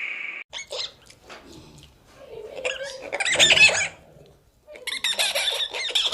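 An animal giving rapid, high-pitched squealing calls in three bouts: a short one, then two longer ones a couple of seconds each. Before them, a steady high tone from the previous sound cuts off about half a second in.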